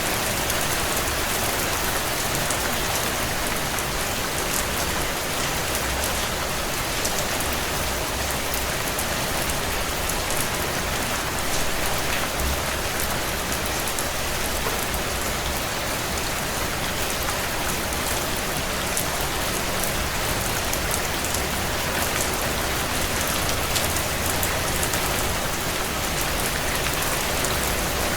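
Heavy rain on a tin roof: a steady hiss of rainfall with many sharp, closely packed drop ticks.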